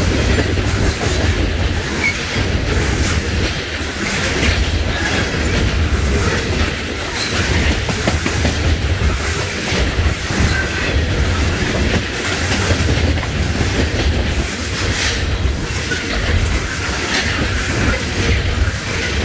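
Norfolk Southern coal train's open-top hopper cars rolling past close by: a steady heavy rumble with wheels clacking over rail joints and now and then a faint squeal of wheel flanges.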